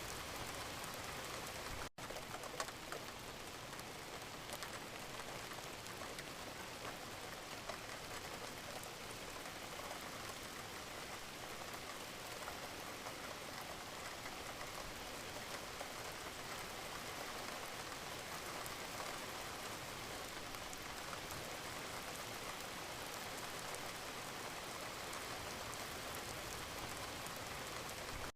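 Steady rain, with many separate drops ticking through it. The sound cuts out for an instant about two seconds in.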